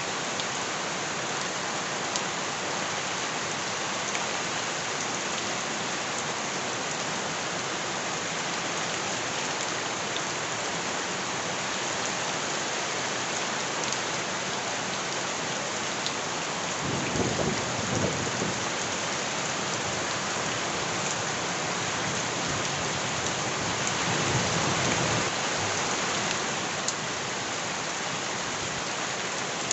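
Steady heavy rain falling and pattering on surfaces, with two low rumbles, one a little past halfway and another near the three-quarter mark.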